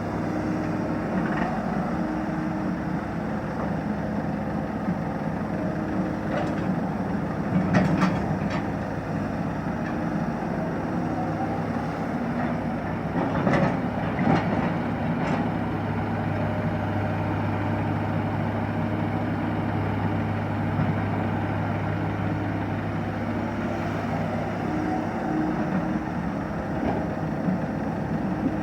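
Diesel engine of a heavy earthmoving machine running steadily, with a few sharp knocks about eight seconds in and again around fourteen seconds.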